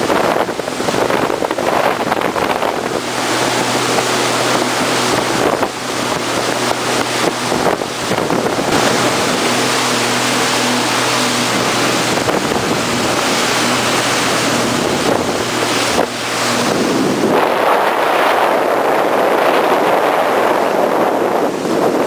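Bombardier jet ski engine running steadily at speed, heard on board under a rush of water and wind buffeting the microphone. About three quarters of the way through, the engine's steady note drops away and the wind and water noise takes over.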